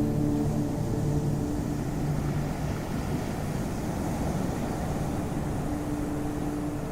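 Ocean waves washing in a steady, low, even noise with no distinct breaks. Sustained singing-bowl-like music tones fade out about half a second in and come back faintly near the end.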